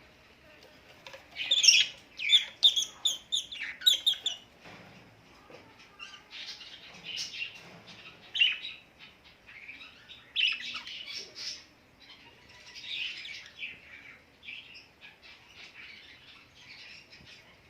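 Several birds chirping and calling. A quick run of loud, sharp calls comes in the first few seconds, then softer, busy chirping.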